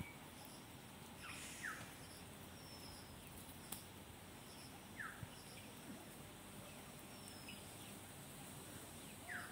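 Faint background hush with a few short bird chirps, each falling quickly in pitch, and one sharp click a little before halfway.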